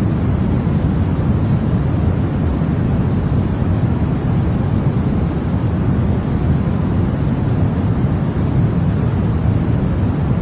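Continuous steady noise played for baby sleep, sold as white noise but weighted deep, with most of its energy low down and only a soft hiss above. It holds an even level with no changes.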